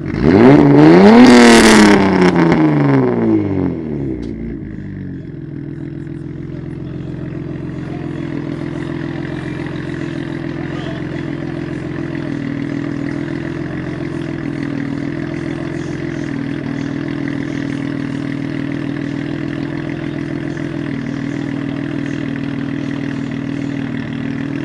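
Turbocharged BMW E36 engine revved once: the pitch climbs for about a second and falls away over the next two. It then settles into a steady idle.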